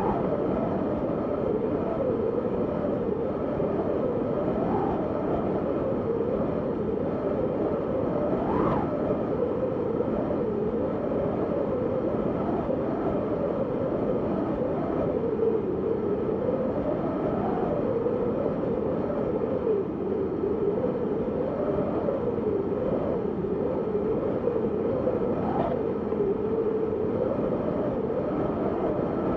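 Wind blowing steadily, a continuous whooshing howl whose pitch wavers slowly up and down, with brief rising gusts about nine seconds in and near the end.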